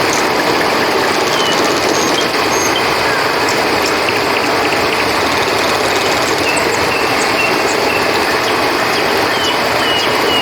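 Steady rush of flowing river water, with scattered short, high chirps over it.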